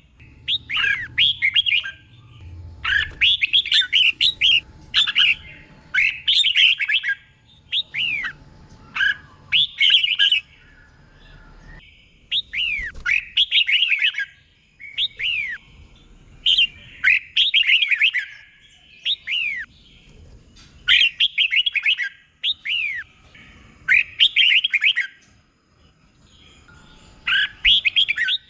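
Red-whiskered bulbul singing: short, bubbly warbled phrases of quick rising and falling notes, repeated again and again with brief pauses between them.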